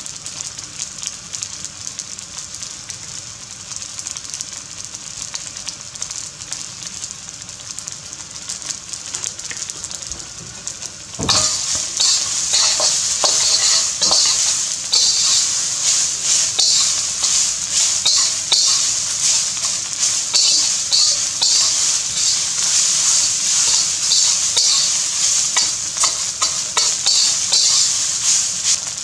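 Fried rice with bacon and onion sizzling in a hot wok, quietly at first. About eleven seconds in the sizzle suddenly gets much louder and a metal spatula starts stirring and tossing the rice, with many short scraping strokes against the wok.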